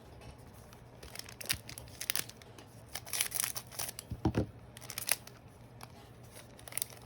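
A trading card booster pack's wrapper being torn open and crinkled by hand, in a series of short irregular tearing and crackling strokes.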